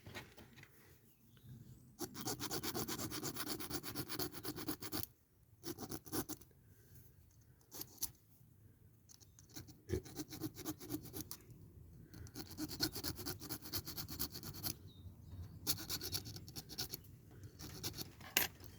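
Metal being rasped or filed by hand on a small diecast model, in bursts of a few seconds with short pauses, as a part is worked loose.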